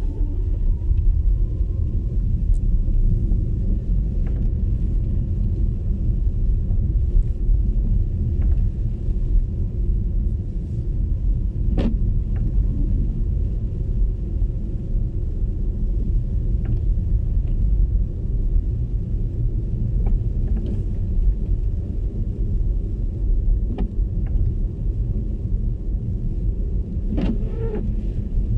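MG ZS EV electric car driving: a steady low rumble of tyre and road noise. A faint electric-motor whine rises in pitch during the first second or so and then holds. A few short clicks or knocks come through, the clearest about twelve seconds in and again near the end.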